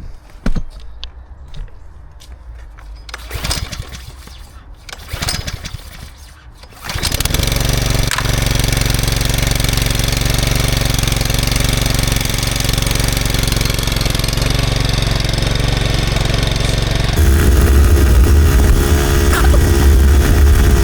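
Petrol engine of a Westermann moss brush being restarted after cutting out: a few clicks and knocks, then about seven seconds in it catches and runs steadily. About seventeen seconds in it becomes louder and deeper.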